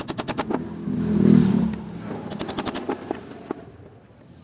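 Metal parts and hand tools clattering while a small air compressor is taken apart: two quick runs of rapid sharp clicks, with a louder, lower scrape about a second in.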